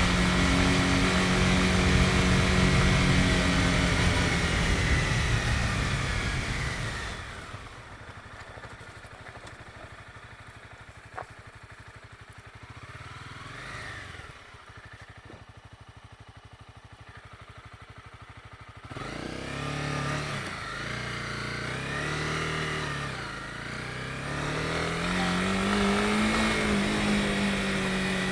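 Honda CB250R single-cylinder motorcycle engine running steadily under way, then easing off about seven seconds in to a quiet idle with a single click near the middle. About nineteen seconds in it pulls away again, revving up and down through the gears.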